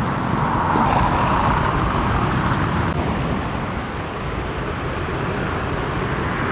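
Road traffic going by: a steady low rumble, with a car passing that swells in the first second or two and fades, and another approaching near the end.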